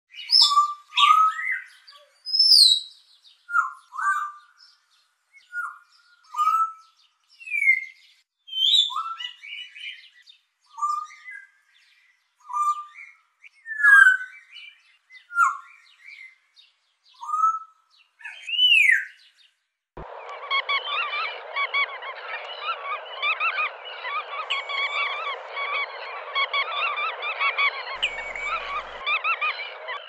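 Bird song: for the first two-thirds, separate bird calls about a second apart, short notes with quick rising and falling sweeps and nothing else behind them. Then it switches abruptly to a dense chorus of many birds chirping at once over a steady hiss.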